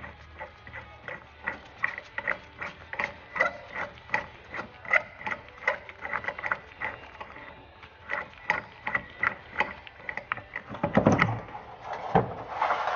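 Hand ratchet wrench clicking in short strokes, about two to three clicks a second, as a fastener is worked loose on the Humvee. Near the end come a few louder metal clunks as parts are handled.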